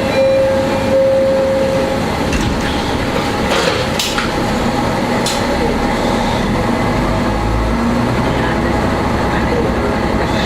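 A Shigaraki Kohgen Railway diesel railcar running along the line. A steady horn note is held until about two seconds in, then the engine and wheels on the rails continue, with a few sharp clicks.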